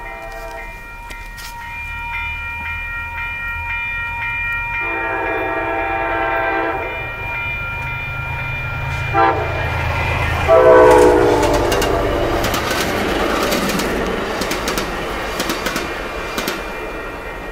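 Commuter rail train horn sounding the grade-crossing pattern: a long blast, a short one, then a final long blast, the loudest, as the train reaches the crossing. A grade-crossing bell rings steadily throughout. After the horn the train passes the crossing with a rumble and a run of wheel clicks and clatter over the rails.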